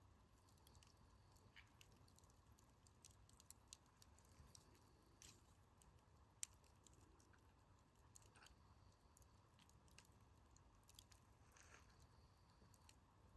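Wood campfire crackling softly, with scattered small pops and clicks and one sharper pop about six and a half seconds in.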